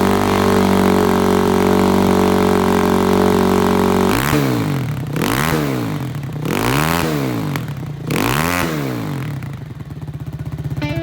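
RVM CZ 250R motorcycle engine being revved while stationary: held at high revs for about four seconds, then dropping and blipped up and down three times before settling back toward idle.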